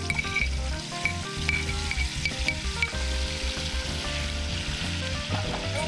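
Ground chili paste sizzling in a hot wok as it is scraped in from a bowl with a spoon. The sizzle grows fuller after about halfway through. Background music plays with it.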